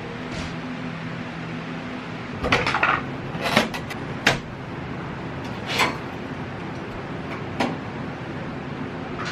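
A string of hard knocks and clatters, as of objects being handled and set down, bunched together in the middle with two single knocks later, over a steady low hum.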